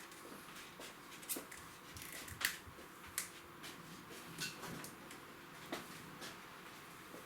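Faint, scattered clicks and light ticks of small handling noises, about a dozen spread irregularly, the sharpest about two and a half seconds in.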